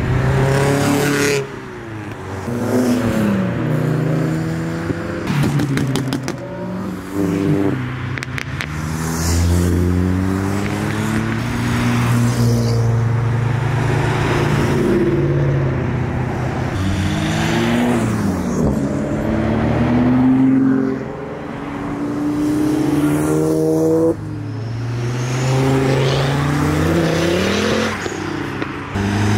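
Modified tuner cars accelerating away one after another, engines revving with pitch that climbs and drops again at each gear change.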